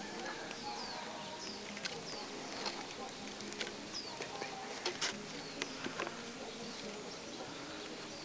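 A bird calling over and over with short, high, falling chirps, with several sharp clicks, the loudest about five seconds in.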